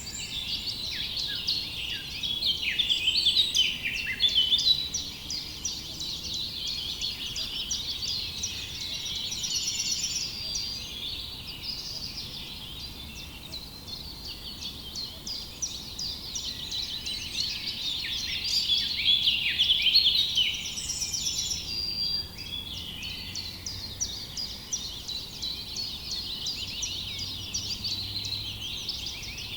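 A chorus of many small birds chirping and twittering at once, with short overlapping calls that swell louder about a few seconds in and again around two-thirds of the way through.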